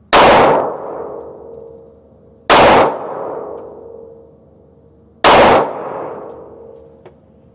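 Three semi-automatic handgun shots, spaced about two and a half seconds apart, each followed by a ringing tail that fades over a couple of seconds.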